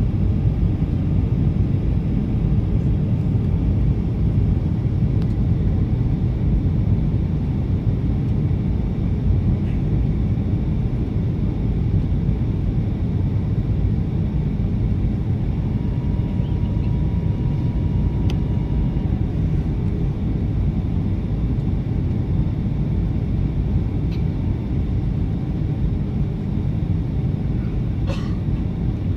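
Steady cabin rumble aboard a Boeing 757 airliner on final approach: engine and airflow noise, with an occasional faint click.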